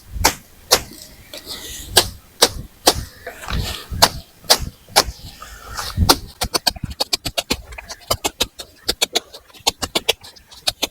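A blade hacking through brush and grass: sharp chops about two a second, quickening to a fast run of strokes about six seconds in.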